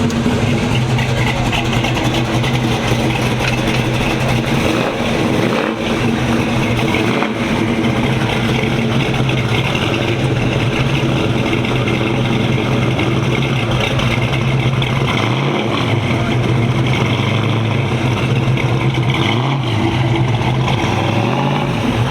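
1989 Ford Mustang Fox body's 5.0 V8 running at a steady idle, loud and close.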